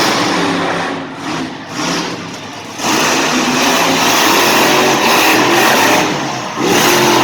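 Monster truck engine revving hard in surges, very loud, easing off between about one and three seconds in and briefly again near the end.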